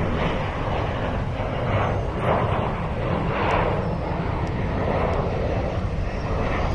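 Jet airliner's engines running nearby, a steady rushing noise with a low rumble underneath.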